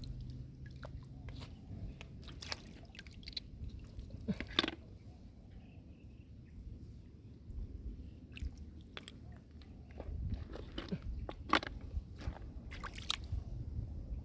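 Scattered sharp clicks and crunches over a low rumble, with some squelching: hands rummaging through wet mud and vegetation while searching for snails and crabs.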